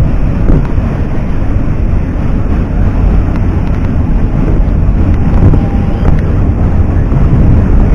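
New York subway train running, a loud steady rumble of the car on the tracks.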